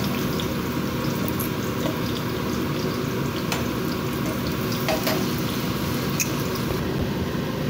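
Potato and carrot pieces sizzling in hot oil in a frying pan, with a few sharp clicks as metal tongs turn them against the pan.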